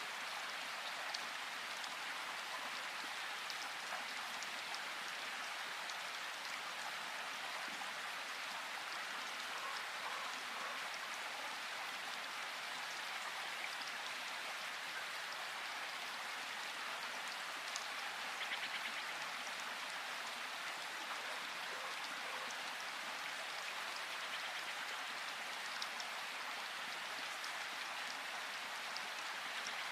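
Steady rain falling, an even hiss with individual drops ticking, and a slightly louder spell of drops about two-thirds of the way through.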